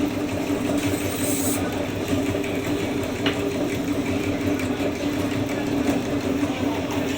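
Scissor grinding machine's electric motor running steadily with an even hum, with a brief high hiss about a second in.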